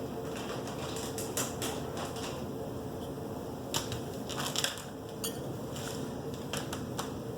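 Scattered light clicks and taps of small feeding utensils being handled, most of them about four to five seconds in, over a faint steady hum.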